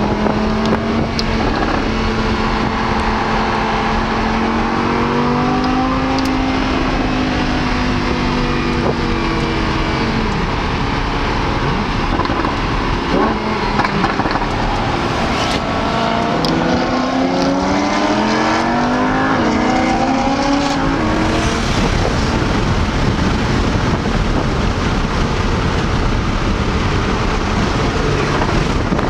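Lamborghini Huracán's V10 engine heard from inside the cabin on track, its pitch repeatedly rising and falling as it accelerates, lifts and changes gear. Over the last part of the lap, steady road and wind noise takes over from the engine note.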